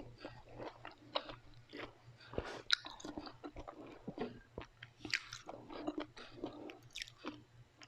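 Close-miked chewing and biting of food, with many irregular crisp crunches.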